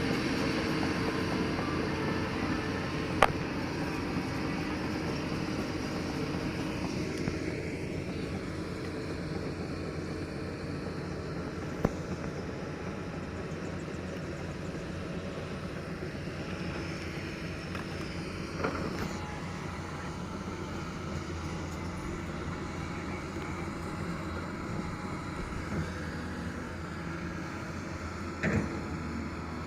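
Doosan DX225LCA excavator running steadily, with a few single sharp knocks now and then.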